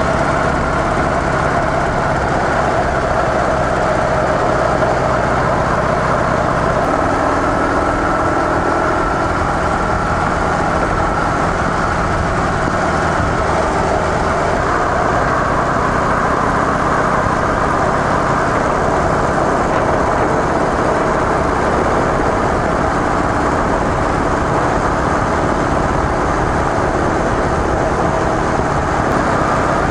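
Harley-Davidson CVO Softail Deluxe's air-cooled V-twin with stock mufflers, running steadily under a constant layer of road and wind noise. The pitch of the low engine note shifts about seven seconds in.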